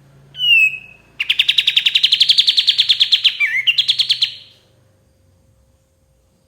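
Kapas tembak songbird singing: a short falling whistle, then a fast trill of about ten notes a second lasting about three seconds, with a brief break and a change of note near its end.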